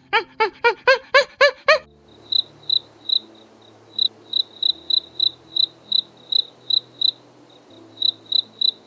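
Cricket chirping: short, high single-pitched chirps at about three a second. For the first two seconds it is preceded by a rapid series of rising-and-falling animal calls.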